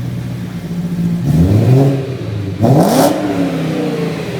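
BMW M3 engine and exhaust idling, then blipped twice, the revs rising and falling back to idle each time; the second blip, about halfway through, is sharper and louder.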